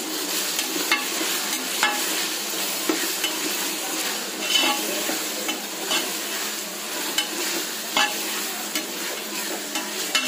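Onions, tomatoes and green chillies sizzling in hot oil in an aluminium pressure cooker, the masala base for a chicken biryani, stirred with a metal slotted spoon that scrapes and clinks against the pot every second or so.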